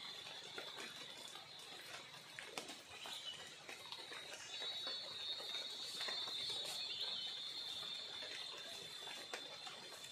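Light rain falling on a river and the surrounding undergrowth, a soft even hiss, under a steady high-pitched insect drone that grows louder about halfway through.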